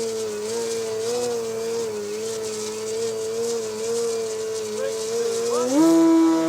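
Electric motor and propeller of an OMP Hobby 60" Edge 540 RC aerobatic plane whining in flight, its pitch wavering gently with throttle. Near the end it rises in pitch and gets clearly louder as the power comes up.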